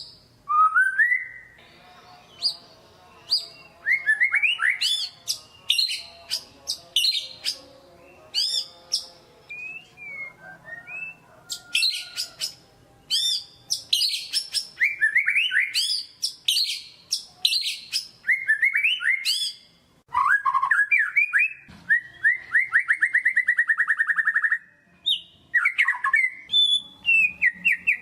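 White-rumped shama (murai batu) singing a loud, varied song of sharp chirps and whistled slides, broken by short pauses, with a fast rattling trill a little past the middle. It is a lure song meant to rouse a quiet shama into singing.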